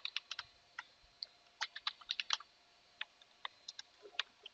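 Typing on a computer keyboard: irregular, quick key clicks in short runs.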